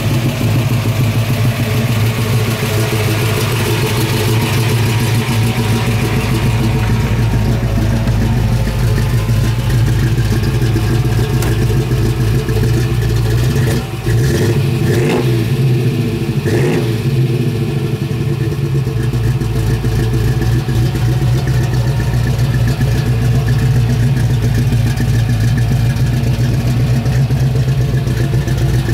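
Ford Boss 302 small-block V8 in a 1969 Mustang running at a steady idle, revved briefly twice about halfway through.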